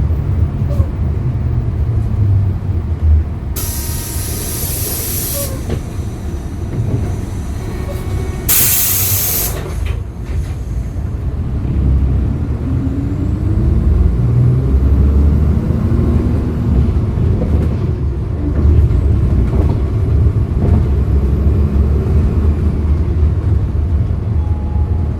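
Hyundai Green City CNG city bus, heard from on board with its engine rumbling low. About four seconds in and again near nine seconds comes a loud hiss of compressed air from the bus's air system. From about twelve seconds the engine pitch rises and falls as the bus pulls away.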